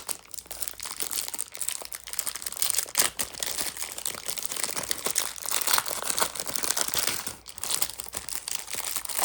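Plastic wrapper of a 1987 Topps baseball rack pack crinkling continuously as it is worked open and the cards are pulled out.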